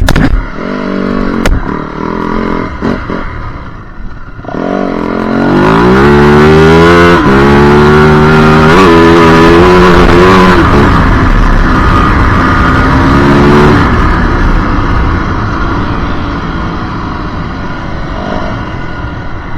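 Yamaha WR450F's 450 cc single-cylinder four-stroke dirt-bike engine. It runs at low revs for the first few seconds, with a couple of sharp knocks. From about five seconds in it accelerates hard up through the gears, the pitch climbing and dropping back at each shift, then eases off and runs quieter near the end.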